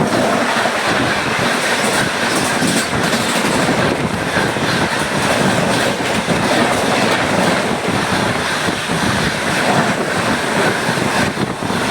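A moving train heard from on board: the steady, loud running noise of wheels on the rails, with scattered knocks.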